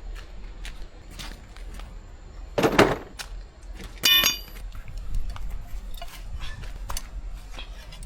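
Metal hand tools being handled, clinking and clanking. There is a louder clatter just under three seconds in, and a single ringing metallic clink about a second later.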